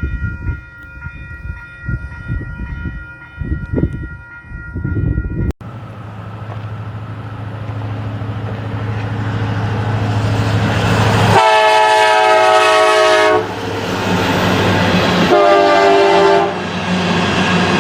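Diesel freight locomotives approaching, their engine rumble growing steadily louder, with the multi-chime air horn sounded in two long blasts past the middle. Before that, a held horn chord over low rumbling.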